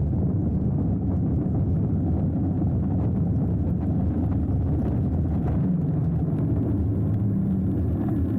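Steady low wind rumble on an action camera's microphone while riding a hardtail mountain bike, with faint scattered clicks and rattles from the bike.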